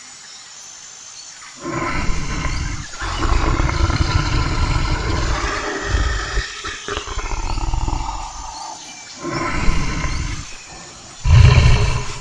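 A large wild animal roaring, five deep, rough roars in a row, the last one the loudest.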